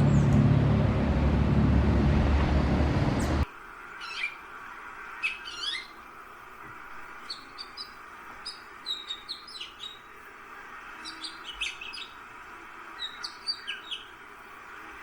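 A loud low rumble with a steady hum cuts off abruptly about three and a half seconds in. After it, small wild birds chirp in short, high, repeated calls.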